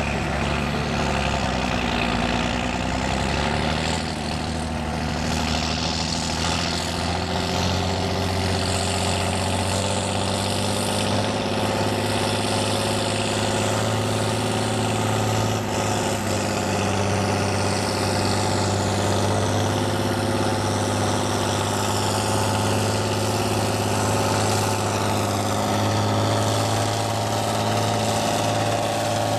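Farm tractor engine working under load in a tractor pull, a loud, steady drone with only slight shifts in pitch.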